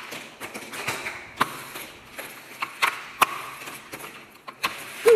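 Hot Wheels die-cast toy cars and plastic track clicking and knocking: irregular sharp clicks, a few louder knocks spaced about a second apart.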